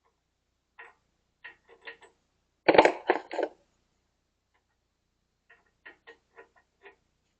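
Metal tools and parts clinking and knocking during hand work on a car's axle and wheel bearing: scattered sharp clicks, a louder cluster of knocks about three seconds in, then a run of lighter ticks near the end.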